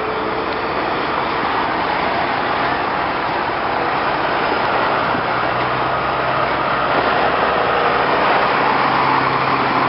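A heavy truck driving past close by, its diesel engine and tyres making a steady, loud noise that grows a little louder towards the end.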